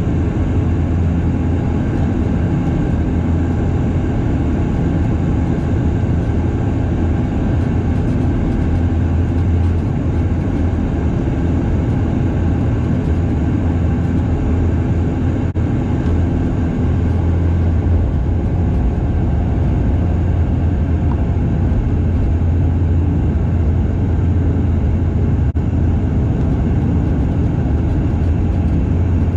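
Cabin noise of a Bombardier DHC8-Q400 turboprop: a loud, steady propeller drone with a strong low hum and a rushing hiss, holding level throughout.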